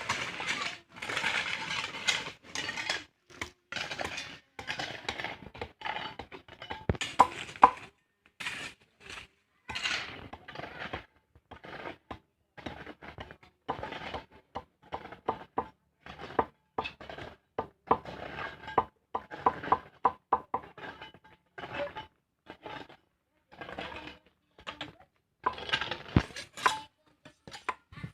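Irregular clinks and knocks of hard objects, some with a short ringing, coming several a second at times.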